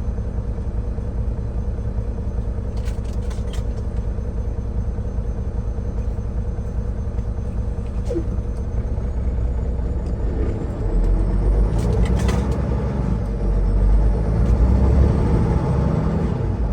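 Semi-truck engine and road noise while driving, a steady low rumble that swells louder about eleven seconds in, as under more throttle. A few faint clicks sound along the way.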